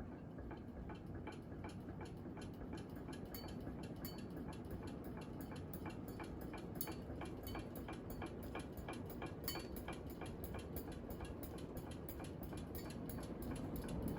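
Hunter Millennium ceiling fan running with a fast, regular ticking over a low hum of moving air, growing slowly louder as the fan speeds up. The fan is wobbling violently, which the owner puts down to one blade being a different weight from the others.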